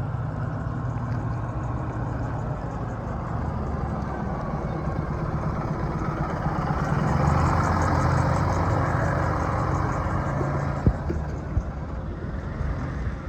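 Scania L94UB single-deck bus's diesel engine running as the bus pulls in, growing louder to a peak about halfway through and then easing off. Two sharp knocks sound near the end.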